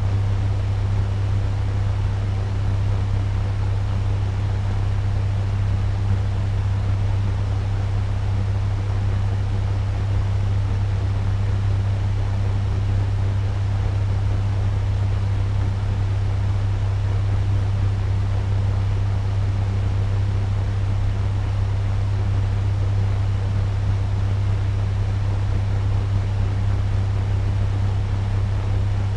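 Turbo fan running steadily at medium speed: an even rush of air over a strong low hum.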